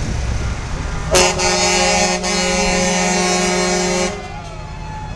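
Truck air horn blowing one long, steady blast of about three seconds, starting about a second in and cutting off sharply, over the low rumble of passing vehicles.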